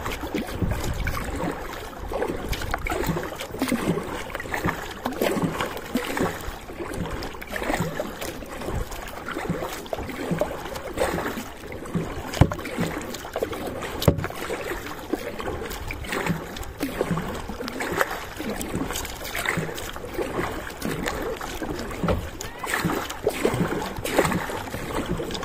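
Kayak paddle strokes in seawater: a steady run of irregular splashes and water sloshing.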